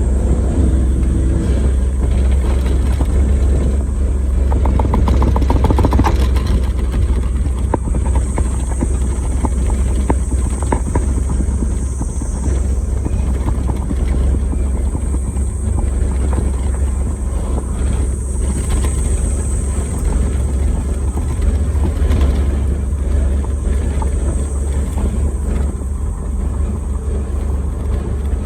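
Suzuki Jimny JA11 being driven on the road on Yokohama Geolandar X-MT mud-terrain tyres: a steady drone of its small three-cylinder engine and tyre road noise, with a heavy low rumble.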